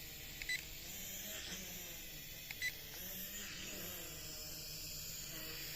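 Two short high electronic beeps, each a quick double chirp, about half a second and two and a half seconds in, over a steady hiss of wind and the faint wavering hum of a small quadcopter drone's motors.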